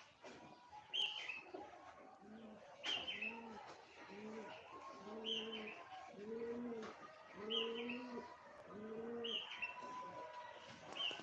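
Pigeons cooing over and over, a low coo about once a second, with another bird's short, falling high chirp every couple of seconds.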